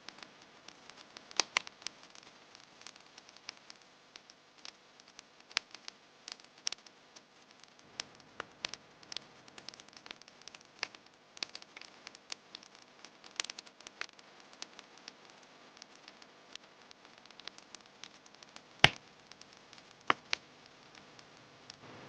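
Wood campfire crackling, with irregular sharp pops over a faint steady hiss and one loud snap late on.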